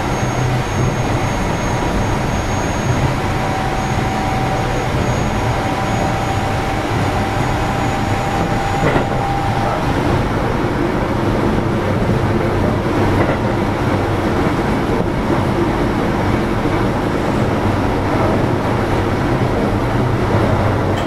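Running noise of a Keio 7000-series electric train at speed, heard inside the car: a continuous rumble of wheels on rail. A thin steady whine runs over it and stops about ten seconds in.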